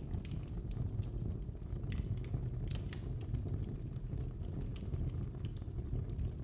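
Fire burning in a fireplace: irregular sharp crackles and pops, several a second, over a steady low rumble of the flames.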